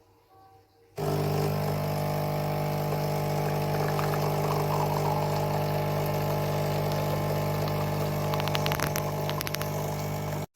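Bean-to-cup coffee machine starting up about a second in and running with a steady mechanical hum, a few clicks near the end, then cutting off abruptly.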